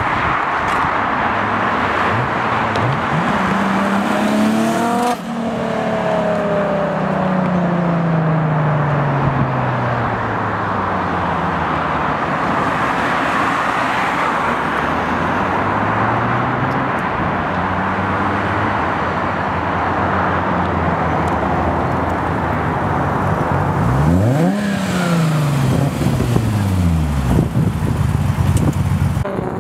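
Nissan Skyline GT-R's RB26 straight-six driven hard past twice, about five seconds in and again around 25 seconds in. Engine pitch climbs under acceleration and falls away after each pass.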